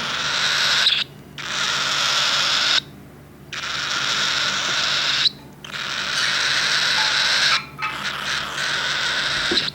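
Cockatiel chick's raspy, hissing begging squall, in five long stretches with short breaks between them. This is the chick's feeding call, begging for more formula from the syringe.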